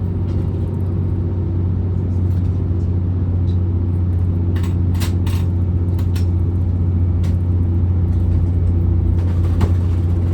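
Class 810 Aurora bi-mode train running on its diesel engines, heard from inside the carriage: a steady low drone that slowly gets louder as the train pulls away. A few sharp clicks and knocks come through about halfway and again near the end.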